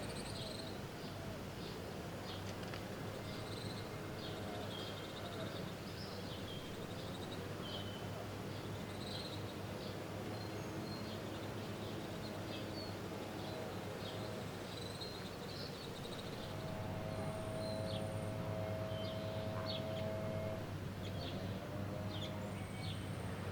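Outdoor ambience of scattered small-bird chirps over a steady low machine hum. About two-thirds of the way through, a pitched motor tone swells in for a few seconds, then fades.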